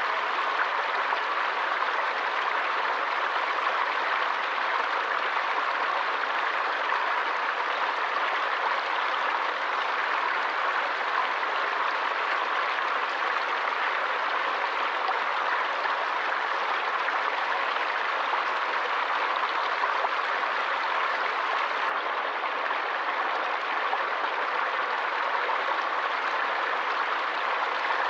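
Water stream flowing steadily: a constant, even rush of running water.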